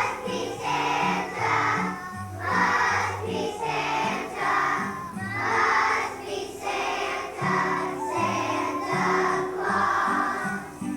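Children's choir singing to a recorded or piano accompaniment with a walking bass line.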